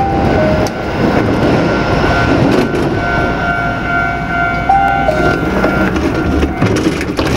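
Tokyu Setagaya Line car, a train running on its rails, with a loud rumble and thin squealing tones that shift in pitch a few times. The noise drops away at the end.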